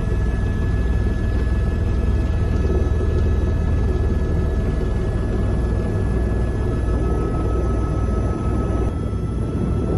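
Écureuil helicopter in flight, its rotor and turbine making a steady deep drone, heard from the passenger cabin.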